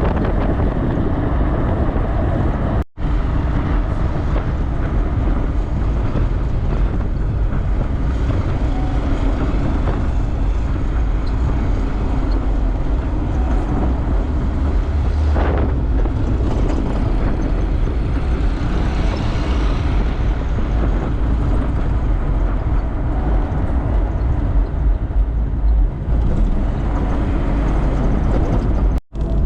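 Steady low engine rumble of vehicles, with wind on the microphone. It cuts out for a split second twice, near the start and near the end.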